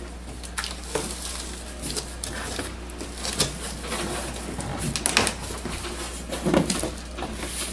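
Irregular rustling, scraping and light knocks of a large cardboard printer box and its packing being opened and handled.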